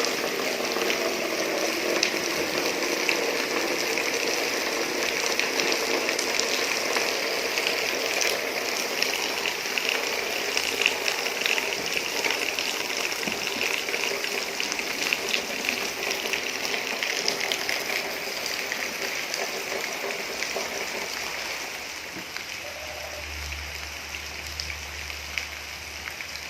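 Heavy rain falling steadily, a dense hiss full of fine drop patter. It eases slightly near the end.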